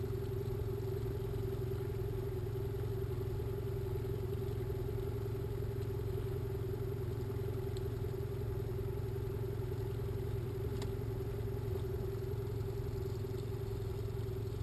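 Boat engine running steadily at low trolling speed, an even hum with no change in pitch.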